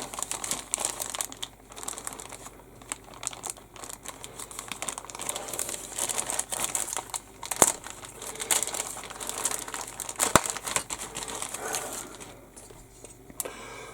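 Thin plastic kit bag crinkling and rustling as plastic model sprues are handled in it, with two sharp clicks in the second half.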